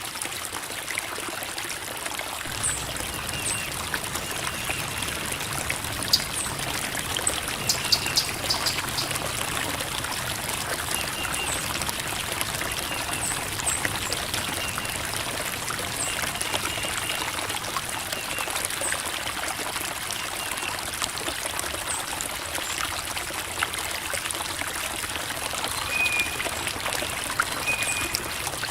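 Creek water trickling and babbling over rocks, a steady flowing wash, with a few faint short high chirps now and then.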